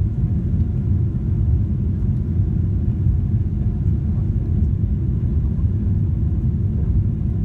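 Boeing 777-300ER cabin noise during the takeoff or climb: a steady, loud, low rumble of GE90 engines and airflow, heard from inside the passenger cabin.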